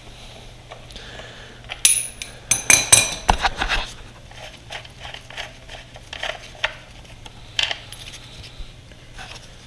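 Metal hand tools and parts clinking and clanking, with a loud ringing metallic clatter about two to three seconds in, then scattered lighter clicks.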